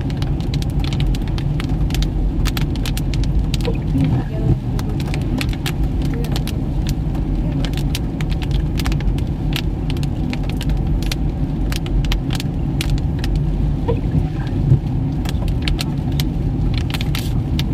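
Toyota Fortuner driving, heard from inside the cabin: a steady low rumble of engine and road noise, with many scattered sharp ticks over it.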